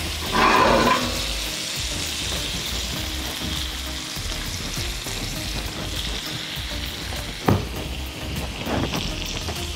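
Razor clams in their shells sizzling in garlic butter with scallions in a hot pan: a steady sizzle that swells louder just after the start, with one sharp tap about three-quarters of the way through.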